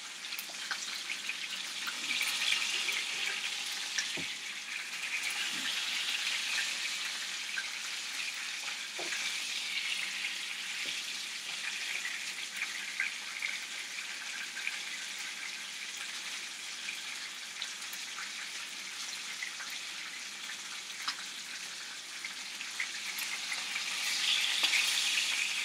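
Deboned skin-on chicken thighs frying skin side down in a skillet: a steady sizzle with small pops and crackles. It swells louder a couple of seconds in and again near the end as the pieces are pressed down against the pan with tongs.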